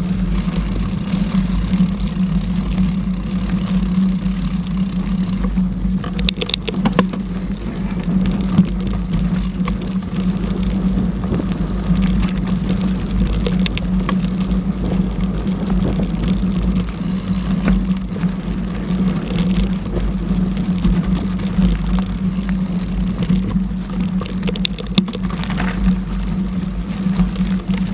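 Mountain bike rolling along a trail, with a steady rumble of tyres and wind on the bike-mounted camera, and a few clattering knocks from bumps about six seconds in and again near the end.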